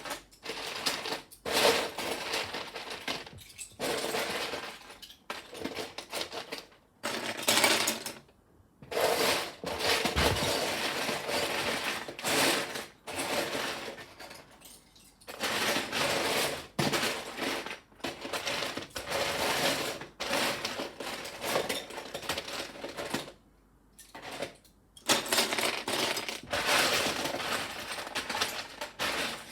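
Loose plastic Lego pieces clattering and rattling as they are sorted by hand, in repeated bursts with short pauses between.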